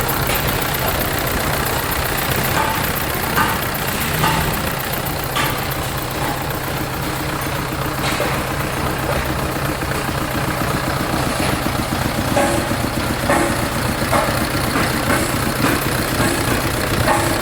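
Hino F17D twin-turbo diesel truck engine idling steadily, with scattered short clicks over the low, even hum.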